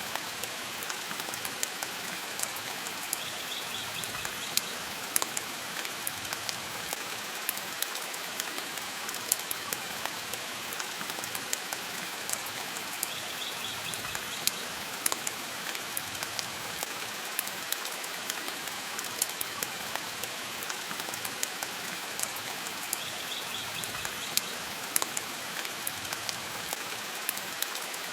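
Steady rain hissing, mixed with frequent sharp crackles and pops from a wood fire in a fireplace.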